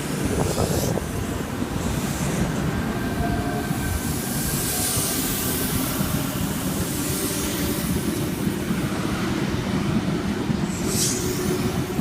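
Sydney Trains C-set electric suburban train departing and running past: a steady rumble of wheels on rail with a motor whine, and short high hissing sweeps from the wheels, one about a second before the end.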